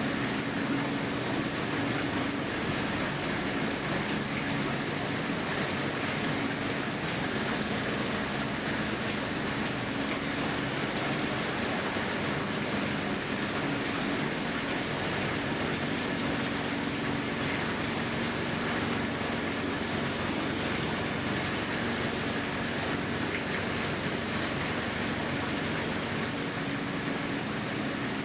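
Steady rushing of running water, like an exhibit waterfall, with a faint low hum underneath.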